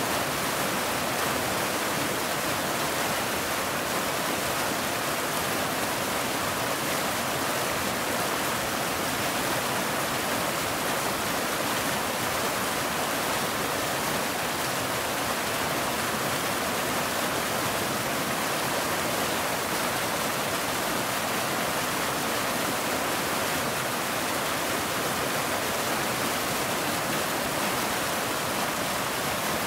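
Waterfall, a steady even rush of falling water with no change in level and no other sounds standing out.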